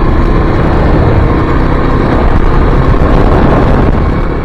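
2023 Kawasaki KLX300's single-cylinder four-stroke engine running as the dual-sport bike rides on from pavement onto dirt, under a heavy, steady low rumble.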